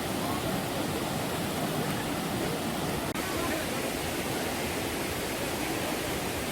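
Clear mountain stream rushing and splashing over boulders in a steady, even rush.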